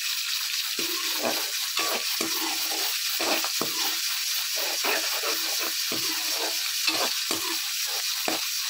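Green chillies and julienned ginger sizzling in hot ghee in a kadai, with a slotted metal spoon scraping against the pan again and again as they are stirred.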